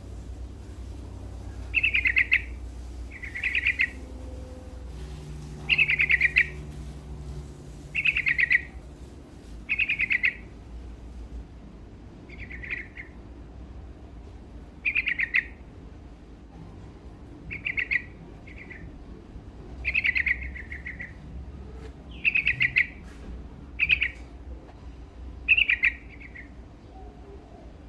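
Yellow-vented bulbul (trucukan) in full song: short rapid phrases of about half a second, repeated every one to two seconds, over a low steady hum.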